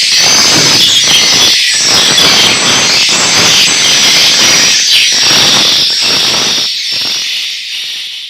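Dense, continuous high chirping of many swiftlets, a swiftlet call-and-roost lure sound of the kind played to draw the birds into a nesting house. It fades out over the last two seconds or so.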